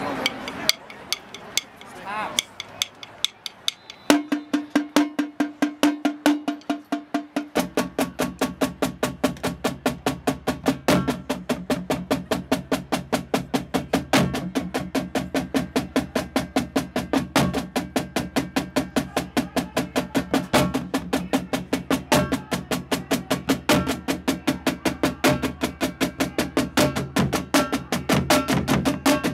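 Marching drumline in a drum-off: a few scattered stick hits, then a single sustained drum roll, and about seven and a half seconds in the full line comes in together with a fast, steady cadence of snare and drum strokes.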